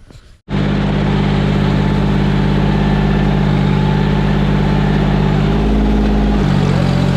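Tractor engine running steadily close up, cutting in abruptly about half a second in; its tone shifts briefly near the end, then settles at a slightly different pitch.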